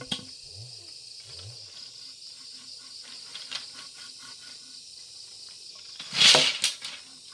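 Insects, crickets, chirping in a steady high drone, with a sharp click near the start and a loud, brief noise about six seconds in.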